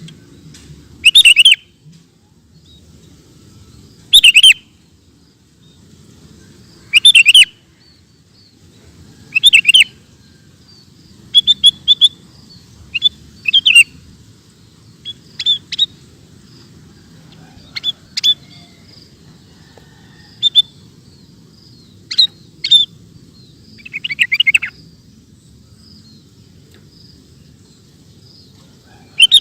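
Sooty-headed bulbul (kutilang) singing: short, loud, chirpy phrases repeated every two to three seconds, over a faint low background noise.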